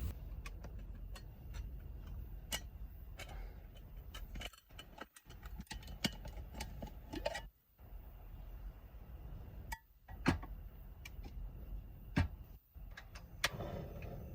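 Irregular light clicks and taps over a steady low rumble, with a few sharper knocks in the second half.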